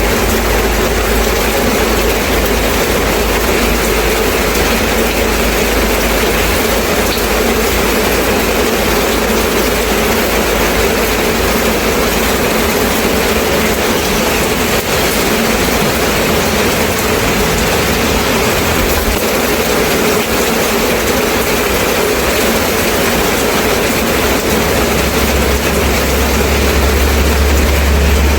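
Steady rain falling, an even hiss, with a low rumble underneath that grows louder near the end.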